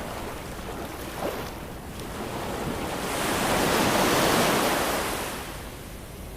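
Ocean waves washing ashore: a steady hiss of surf with one wave swelling up, breaking about four seconds in and washing back out.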